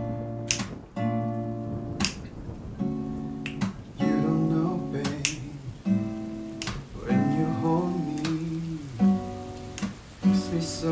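Acoustic guitar playing slow chords, with finger snaps about every one and a half seconds.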